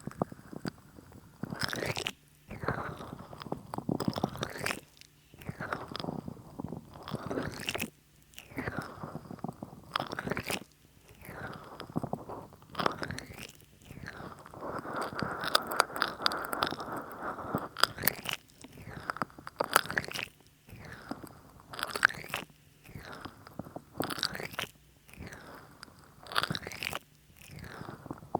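Hands slick with too much massage oil rubbing over a binaural microphone: wet, squelching strokes in repeated passes of a second or two, broken by short pauses, with one longer steady rub about halfway through.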